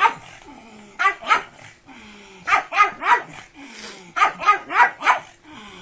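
Dog barking in short, high-pitched barks, about ten of them in quick clusters of two or three.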